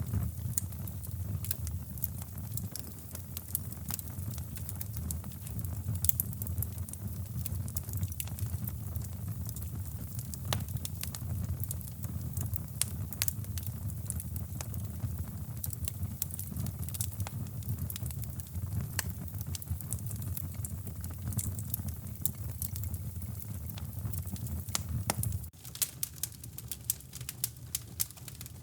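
Wood fire crackling in a fireplace: many sharp pops and crackles over a steady low rumble. The rumble drops away suddenly near the end while the crackling goes on.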